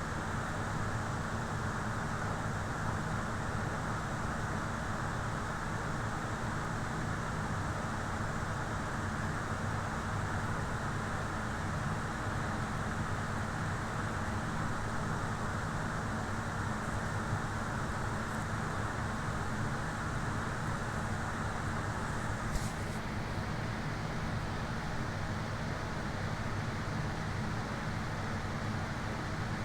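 Steady, even rumbling noise with a low hum, and a single sharp click about twenty-two seconds in.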